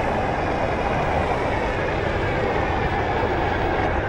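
Steady rushing and rumbling noise of a Onewheel ride in motion, with wind buffeting the microphone.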